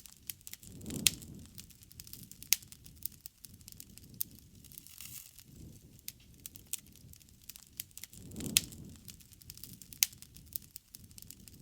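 Wood bonfire burning: a steady spatter of sharp crackles and pops, with louder snaps a little after a second in, at about two and a half seconds, and again twice near the end, over a soft low rumble of flame that swells twice.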